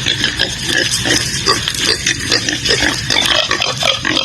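Pigs grunting, a quick irregular string of short grunts.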